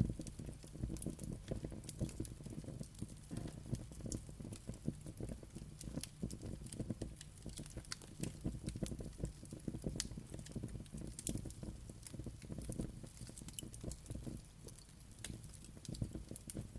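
Wood fire crackling: a steady low rumble from the flames with many small, irregular pops and snaps throughout.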